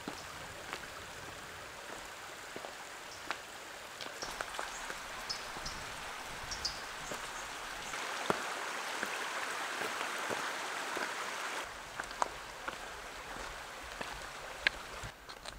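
Steady rushing of a flowing creek, swelling a little about halfway through and easing off past two-thirds of the way, with scattered small clicks and taps over it.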